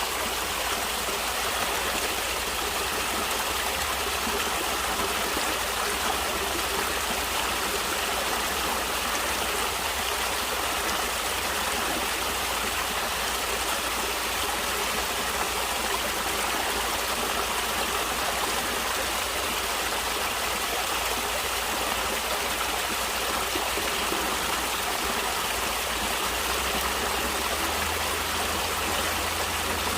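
Natural running water, a stream flowing and splashing steadily without a break.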